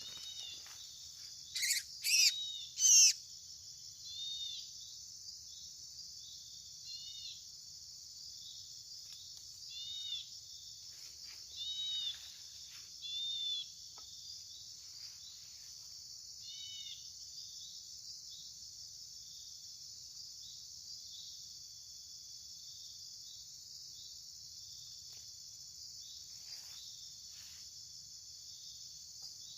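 Steady high insect drone, with short bird chirps from small songbirds over it. The three loudest chirps come in the first three seconds, then fainter ones are scattered until about halfway through.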